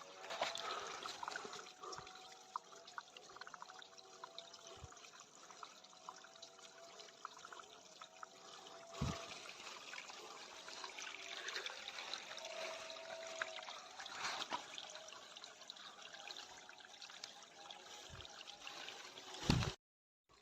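Water trickling and splashing steadily, like a small stream. It carries scattered faint clicks and a couple of knocks, and cuts off suddenly near the end.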